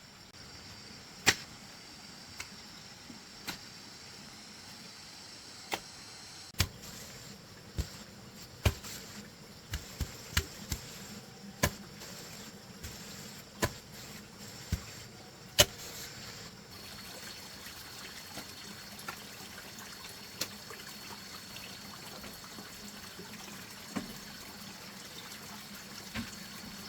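A spade chopping into the earth to dig a post hole: irregular sharp strikes, sometimes several a second apart and sometimes in quick runs, over a steady trickling-water hiss.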